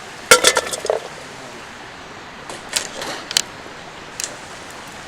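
Kitchen knife chopping onion on a cutting board: a quick run of sharp taps, then a few scattered taps. The steady hiss of a flowing river runs underneath.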